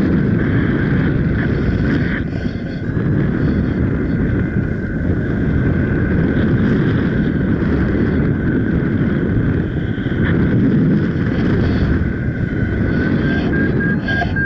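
Strong wind buffeting the microphone of a paraglider pilot in flight: a loud, steady, gusting rush, with a thin steady high tone running through it.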